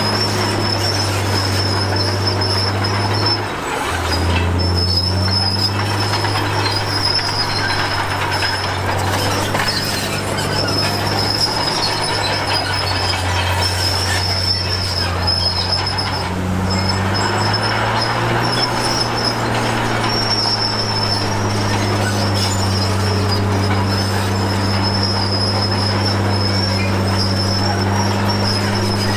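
Komatsu D53P crawler bulldozer working: its diesel engine runs steadily under load while the steel tracks squeal in a high, wavering note. The engine pitch drops about four seconds in and changes again about halfway through.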